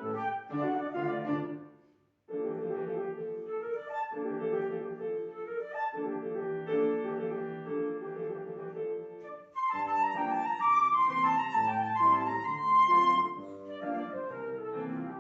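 Flute playing a melody with piano accompaniment. It breaks off into a short silence about two seconds in, then starts again.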